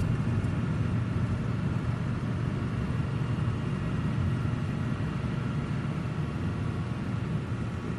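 A 1940s car driving along at a steady pace, its engine and road noise making a continuous low rumble.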